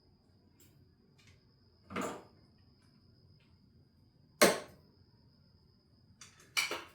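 Hand tools and parts knocking about during engine-bay disassembly: a short scrape about two seconds in, a sharp knock in the middle, the loudest, and a quick rattle of clicks near the end.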